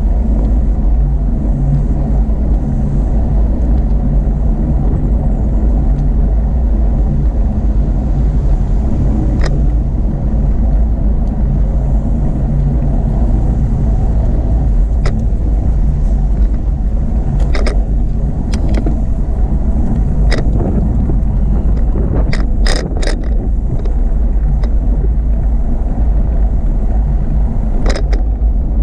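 Steady low rumble of wind and rolling noise on the microphone of a camera carried on a moving bicycle, with a few sharp clicks and rattles scattered through it.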